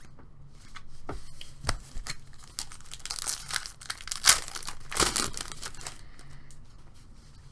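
Trading-card pack wrapper being torn open and crinkled in the hands. A few sharp clicks come in the first two seconds, then a burst of tearing and crinkling from about three to five and a half seconds in.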